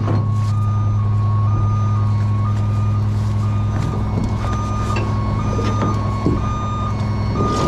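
Heavy truck's diesel engine running steadily, with a warning alarm sounding continuously and switching between two close pitches about every half second.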